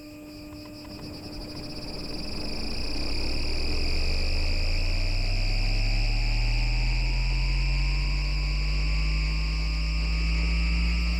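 IGBT VVVF inverter and traction motors of an FGV Class 4200 Bombardier Flexity Outlook tram (MITRAC drive) as the tram pulls away: a whine glides up in pitch and levels off, over a low motor hum that also rises. It gets louder over the first few seconds, with steady high tones above.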